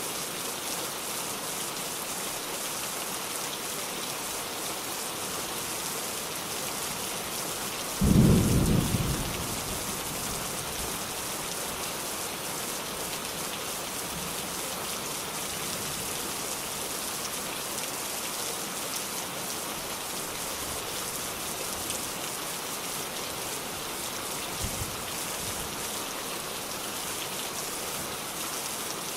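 Steady rain hiss, with a single loud clap of thunder about eight seconds in that rumbles away over a couple of seconds.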